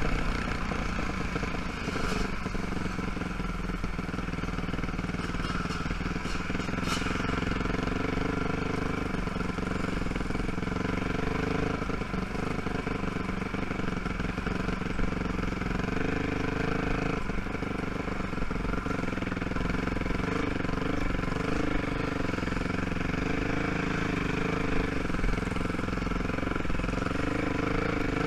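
ATV (quad) engine running at low, fairly steady revs as the quad is ridden slowly, its pitch shifting a little as the throttle eases on and off.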